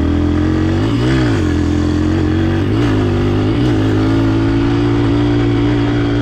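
Dirt bike engine running close by: a quick rev up and back down about a second in, two smaller throttle blips around three seconds, then a steady note.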